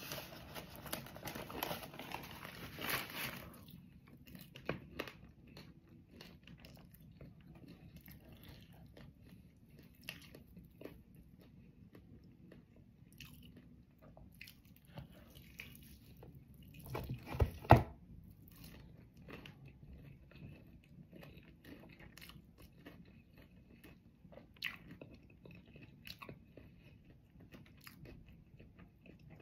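Paper bag rustling for the first few seconds as a hand reaches in, then a person biting and chewing crispy-skinned fried chicken, with small crunches and wet mouth sounds. A couple of loud knocks come about halfway through.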